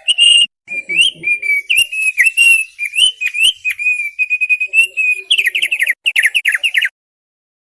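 Thick-billed white-eye (opior paruh tebal) singing: a string of clear whistled notes that waver up and down around one pitch. After about five seconds it turns to a quick run of falling notes, then stops shortly before the end.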